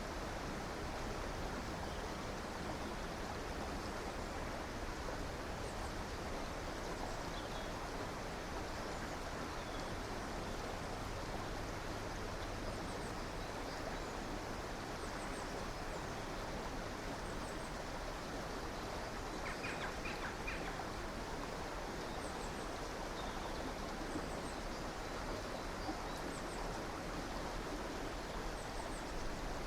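A river or stream flowing with a steady rush of water, while small birds chirp faintly and repeatedly in short high notes, with a slightly louder call about twenty seconds in.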